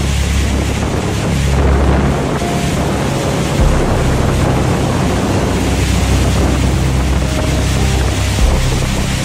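Heavy rain pouring down in a steady roar of noise, with wind buffeting the microphone. Faint background music with low held notes lies underneath.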